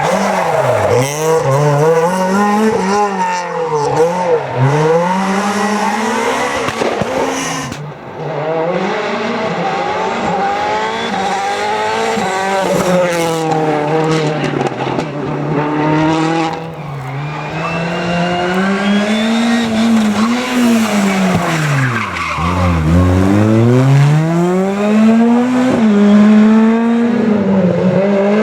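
Rally cars at racing speed on a stage, engines revving hard and falling off again and again through gear changes and braking, with one deep drop and climb back up about two-thirds of the way through.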